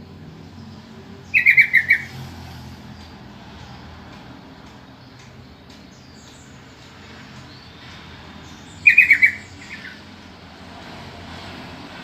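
Sooty-headed bulbul calling: two short bursts of quick, bright chattering notes, about seven seconds apart.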